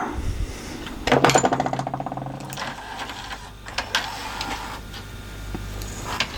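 A small electric motor whirring for about a second and a half with a fast run of gear ticks, among clicks and clatter of small mechanical parts.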